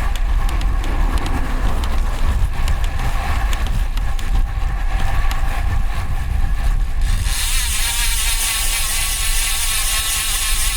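Wind rushing over a bike-mounted microphone with road noise while riding a road bike. From about seven seconds in, a fast, even buzz of the rear freehub on a DT Swiss ARC 1100 wheel joins it as the rider coasts.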